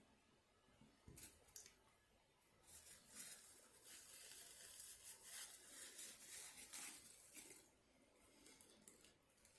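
Faint rustling and crinkling of paper, like a fast-food wrapper or paper towel being handled: a few quick crackles about a second in, then about five seconds of steady crinkling that dies away near the end.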